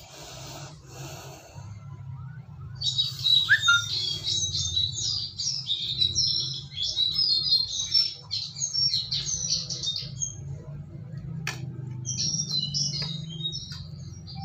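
A small songbird chirping and twittering in rapid, high-pitched runs. It starts about three seconds in, pauses briefly, then starts again near the end, over a steady low hum.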